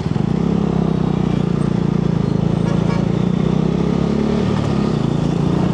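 Motorcycle engine running steadily while riding, heard close up from the bike itself, over a haze of road and traffic noise.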